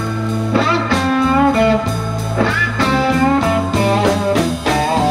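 Live blues band playing between vocal lines: an electric guitar plays a lead fill with bent notes over a steady low bass line and regular drum strikes.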